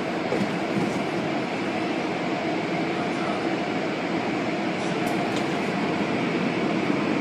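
Steady mechanical drone of car wash machinery, an even rushing noise with a low hum running under it.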